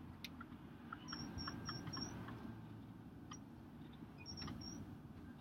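Low, steady road and engine rumble inside a moving pickup truck's cab, with faint clicks and short, high squeaks: a quick run of four about a second in and three more around the four-second mark.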